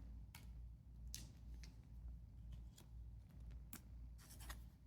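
Faint, scattered soft rustles and ticks of trading cards being handled and slid against each other, over a low steady hum.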